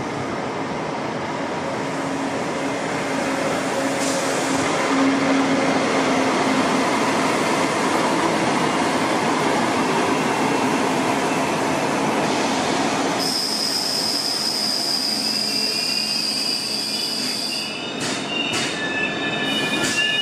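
A train running by with a steady rumbling rush that swells toward the middle. About two-thirds of the way through, a high-pitched wheel squeal sets in and holds for several seconds. Near the end it gives way to several overlapping squealing tones and a few sharp clicks.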